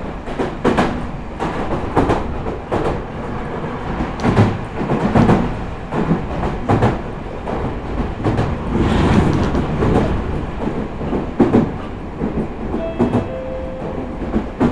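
Meitetsu 4000 series electric train running, heard from inside the car: a steady rumble of wheels on rail with irregular clacks and knocks as the wheels cross rail joints. A brief faint whine sounds near the end.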